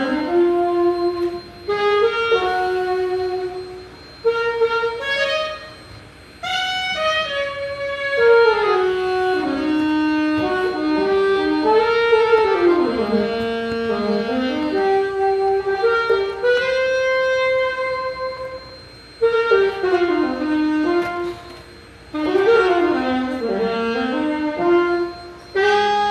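Solo saxophone playing melodic phrases of a few seconds each, separated by short pauses, as a sound check.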